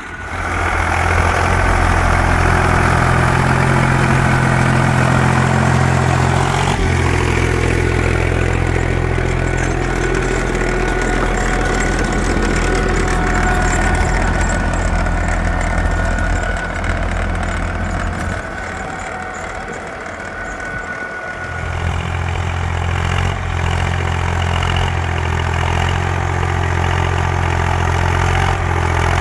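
Zetor 5245 tractor's diesel engine running steadily while driving a Howard rotavator through ploughed soil. It drops away for a few seconds about two-thirds through, then comes back at full strength.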